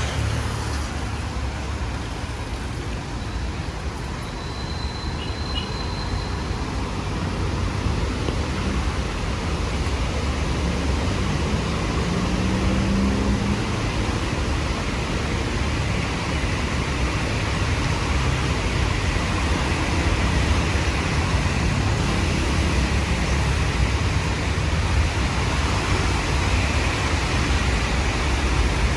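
Road traffic on a rainy city street: a steady rumble of engines and tyres over an even hiss, growing louder about eight seconds in.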